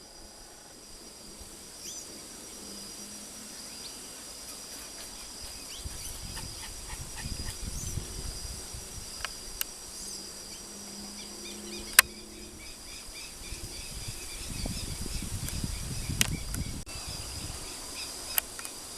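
Steady high-pitched insect chorus with scattered short bird chirps over it. Low rumbling noise comes in twice, and there are a few sharp clicks, the loudest about two-thirds of the way through.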